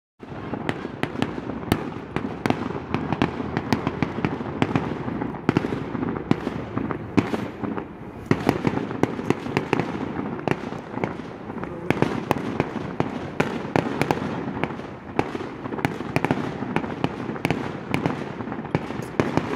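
Fireworks display going off: a dense, unbroken run of sharp bangs and crackles, several a second, over a continuous rumble.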